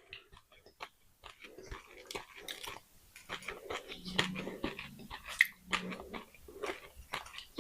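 Close-up crunching and chewing of pieces of baked clay pot, a rapid run of sharp, dry crunches.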